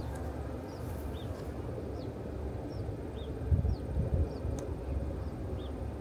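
Outdoor ambience: a small bird repeats a short, falling chirp about once a second over a steady low rumble, with a single sharp click midway.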